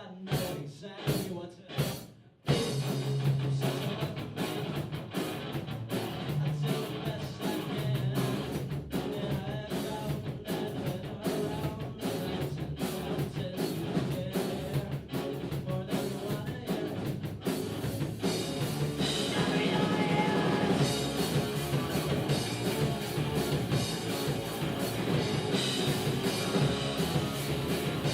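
Rock music with a drum kit playing, breaking off briefly about two seconds in, then running on steadily.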